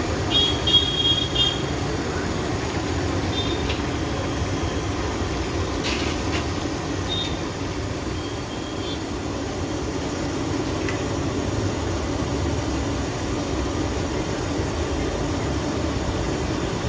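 Steady low rumble of street traffic, with a few brief high squeaks about a second in.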